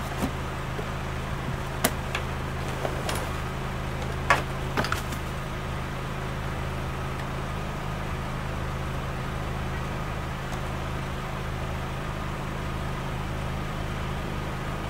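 A vehicle engine idling with a steady low hum. A few sharp knocks and clicks from equipment being handled come in the first five seconds.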